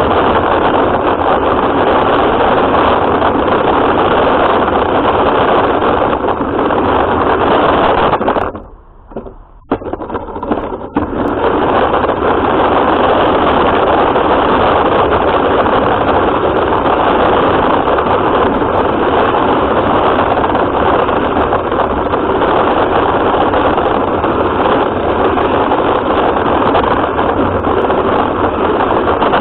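Radio-controlled car driving, its motor, gears and tyres making a loud, steady noisy rush. The sound drops away for about two seconds a third of the way in, then picks up again.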